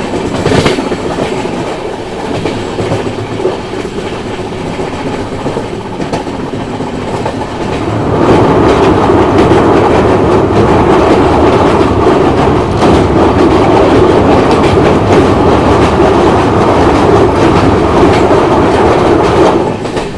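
Moving passenger train heard through an open coach door: steady running noise with wheel clatter. About eight seconds in it grows much louder as the train crosses a steel truss bridge, then drops back shortly before the end as it comes off the bridge.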